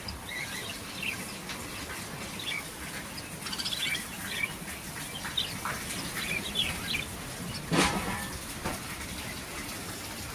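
Myna chicks chirping: many short, high chirps in quick irregular succession, with one louder, harsher sound about eight seconds in.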